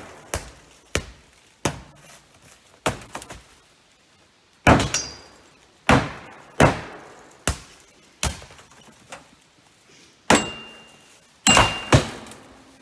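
Repeated heavy blows from hand tools striking a Honda CR-V's body and glass: about a dozen hard, separate strikes at an uneven pace, a few with a short metallic ring after them.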